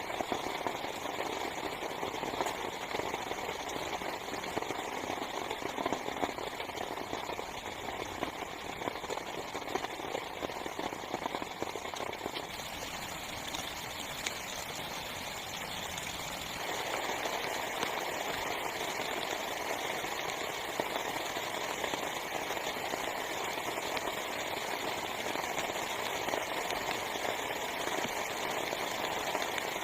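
Heavy rain falling on a small tent's fabric: a steady, dense hiss of drops. The sound shifts slightly about halfway through and grows a little louder.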